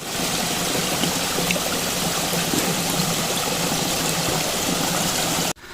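A mountain stream running with a steady rush of water. It starts suddenly and cuts off abruptly after about five and a half seconds.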